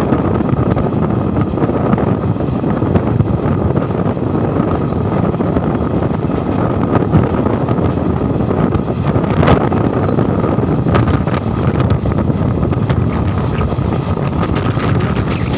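Indian Railways passenger train running, heard from on board: a steady rush of wind on the microphone over the rumble of the moving train, with a faint steady tone and a few sharp clicks, the strongest about halfway through.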